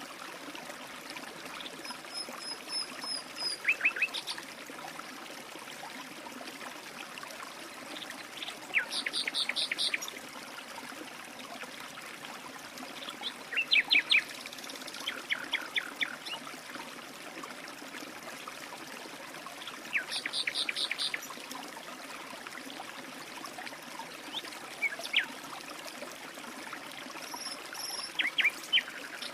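A small stream trickling steadily, with songbirds calling over it in short bursts of rapid, quick-falling notes every few seconds.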